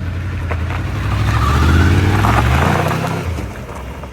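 Motorcycle engine accelerating, its pitch climbing and loudest about two seconds in, then fading quickly as it pulls away.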